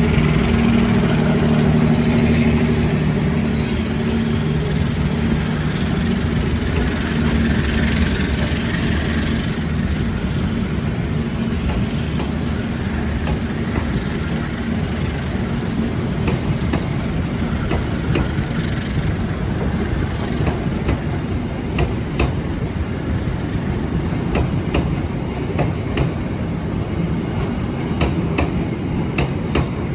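Long-distance passenger train running through a station. A steady low locomotive drone is heard in the first several seconds. Then comes the continuous rumble of the coaches, with sharp wheel clicks over the rail joints in the second half.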